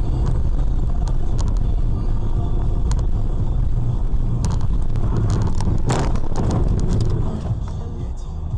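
Car driving, heard from inside the cabin: a steady low engine and road rumble with scattered clicks and a brief louder hiss about six seconds in.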